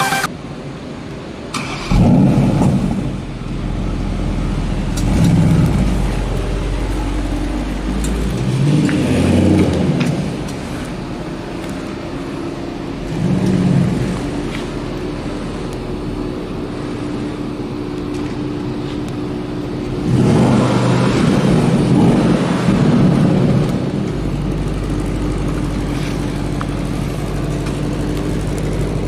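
Porsche Panamera Turbo's twin-turbo V8 starting up about two seconds in, then idling and being revved several times in short blips, with one longer rev about two-thirds of the way through.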